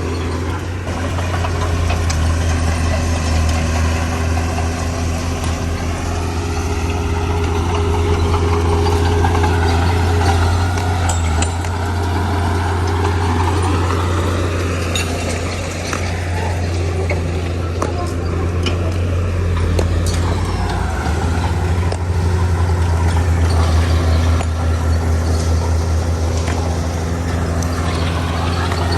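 Heavy diesel engine of earth-moving machinery running steadily under load. A deep hum holds throughout while higher whining tones rise and fall slowly as the revs change.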